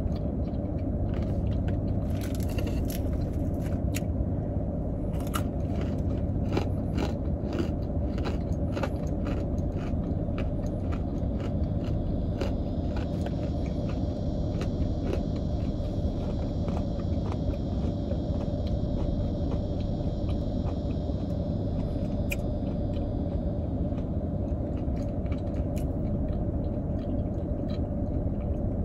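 A person chewing and biting fried food close to the microphone, with many small crunches and clicks that thin out after the first dozen seconds. Under it runs the steady low hum of the car.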